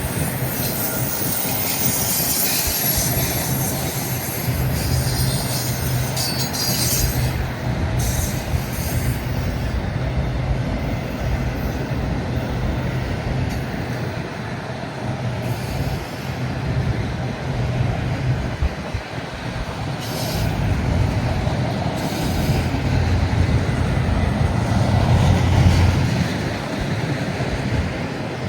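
Freight train cars rolling past at track side with a steady low rumble, wheels squealing high-pitched mostly in the first several seconds, with gusty wind on the microphone.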